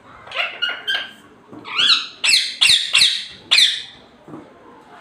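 A pet parrot calling: three short chirps, then from about a second and a half in, a run of five loud, high calls that bend up and down in pitch.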